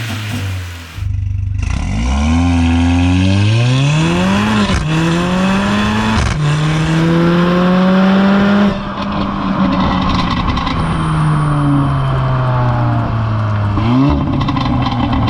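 Tuned Mercedes-AMG A45's turbocharged 2.0-litre four-cylinder engine and exhaust at full throttle, the revs climbing through the gears with quick upshifts about 1, 5 and 6 seconds in. About 9 seconds in, the throttle is lifted and the revs sink slowly as the car slows, with a quick rev blip of a downshift near the end.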